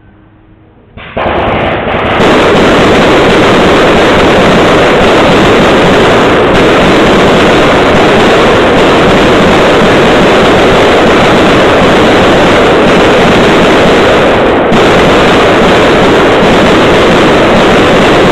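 A multi-shot firework cake (a box of fireworks lit from one fuse) going off, bangs following so fast they merge into one continuous, extremely loud barrage. It starts about a second in and keeps going without a break.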